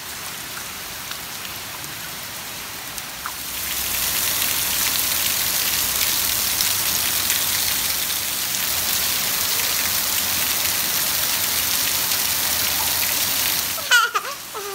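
Steady rain falling, growing heavier and hissier about three and a half seconds in. A brief high-pitched call cuts through near the end.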